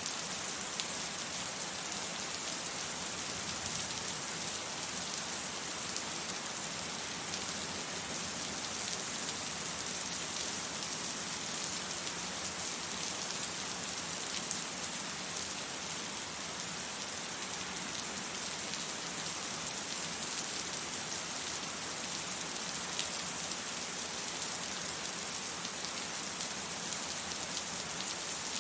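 Steady rain falling and pattering on hard surfaces, a dense even hiss with fine drop ticks and no thunder.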